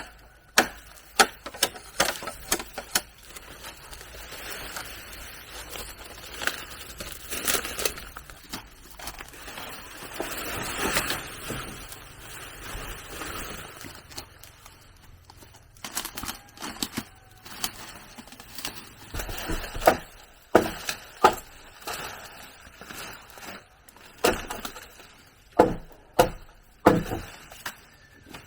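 Irregular sharp knocks and taps of wood being handled and struck, with rustling and scraping between them; the knocks thin out in the middle and come thick again for the last third.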